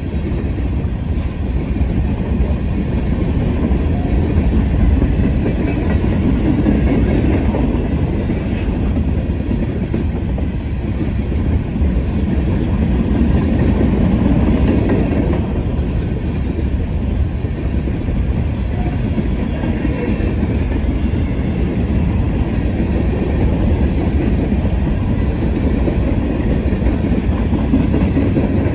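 Freight train of empty grain hopper cars rolling past, with a steady low rumble and clatter of wheels on the rail joints.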